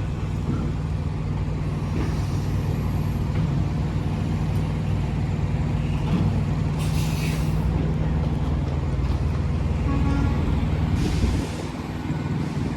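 Semi truck's diesel engine running steadily while the trailer is being backed toward a loading dock, with two short air-brake hisses, about seven and eleven seconds in. The engine sound drops away just after the second hiss.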